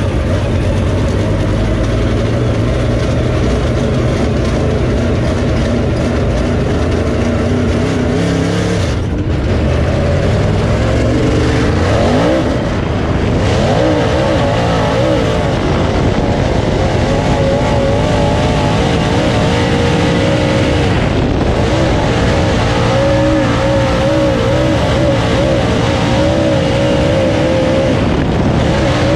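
Dirt late model race car's V8 engine running on track. The engine note is low and steady at first, then swings up and down about halfway through as the throttle is worked. It then holds a higher, wavering pitch, on and off the throttle through the turns.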